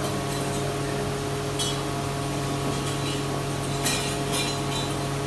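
Steady machine hum in a metalworking workshop, with a few sharp metallic clinks of parts or tools, the loudest about four seconds in.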